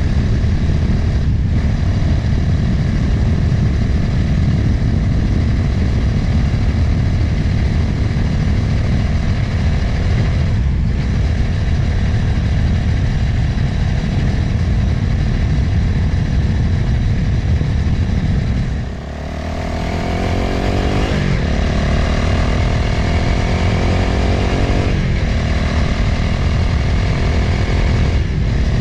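Motorcycle under way at road speed, wind rushing over the microphone with the engine running beneath it. About 19 seconds in the throttle is briefly closed, then the engine note climbs steadily for several seconds as the bike accelerates again.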